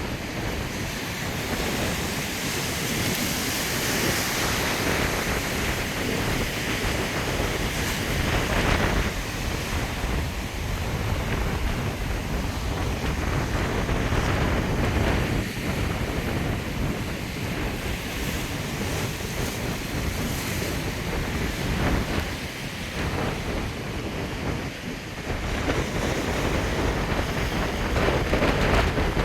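Storm wind gusting across the microphone over the rush of ocean surf breaking, surging and easing from moment to moment.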